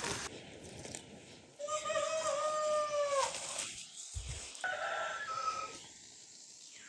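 Rooster crowing: one long, held crow that drops in pitch at the end, followed a little later by a shorter, higher call. A brief low thump comes between them.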